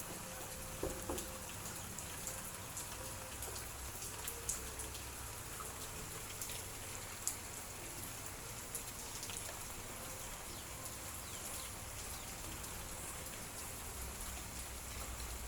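Light drizzle falling, a steady soft hiss with scattered sharp drip ticks of raindrops landing on surfaces.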